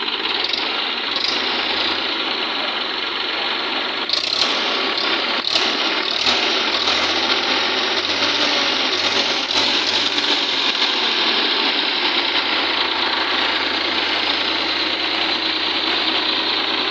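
Tafe 5450 DI Mahaan tractor's three-cylinder diesel engine running steadily, with a few sharp knocks about four to six seconds in.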